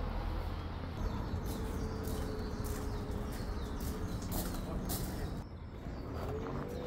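Outdoor ambience of birds calling over a steady background hush.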